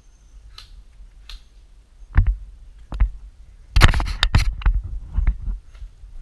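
A few sharp clicks and knocks close to the microphone, with a dense rattling cluster of them about four seconds in, as gear is handled. A low rumble runs underneath.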